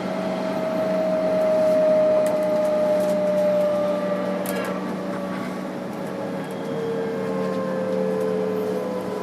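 Tokyo Metro 06 series train heard from on board: motor and inverter whine over rolling noise, with several tones falling slowly in pitch as the train slows, and a few faint rail clicks.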